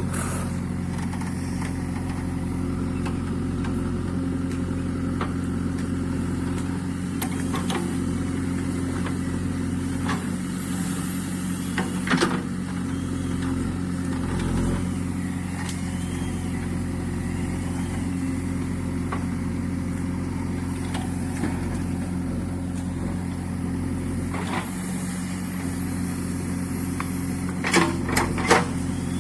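A heavy vehicle's engine running steadily at an even, low idle. There are a few sharp clicks or knocks, loudest in a short cluster near the end.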